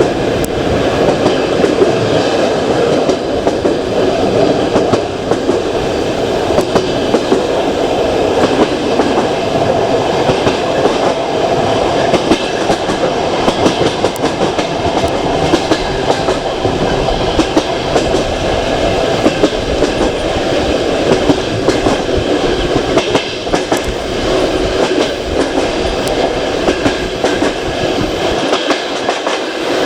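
Passenger train carriage running along the track: a steady rumble of wheels on rail with frequent clicks and knocks as the wheels pass over rail joints.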